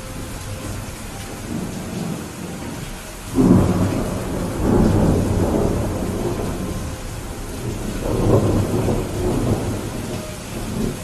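Steady rain with rolling thunder: a sudden loud crack-and-rumble about a third of the way in, swelling again shortly after and once more later, then fading.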